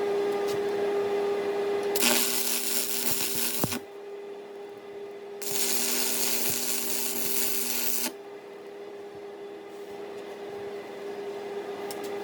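Stick welder arc crackling in two short runs, the first about two seconds in and the second about five seconds in, over the welding machine's steady hum. The rod is being run with the polarity set wrong.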